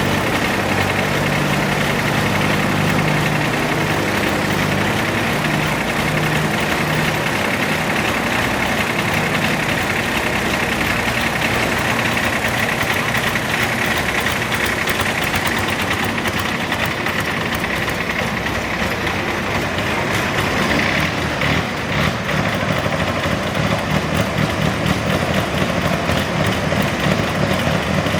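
Modified pulling garden tractor engine idling. A steady low note early on gives way to an even, pulsing beat in the last third.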